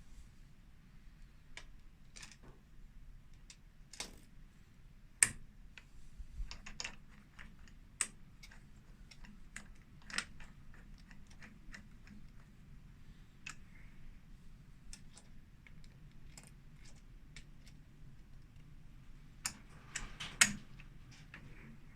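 Irregular light clicks and taps, one to three a second, with sharper knocks about five seconds in and near the end, over a faint low hum.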